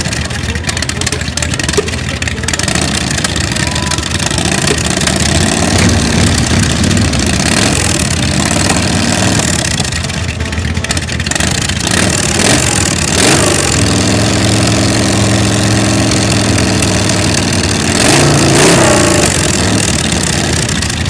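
Custom chopper motorcycle engines idling and being revved, the engine note rising and falling a few times with a steadier stretch between the revs.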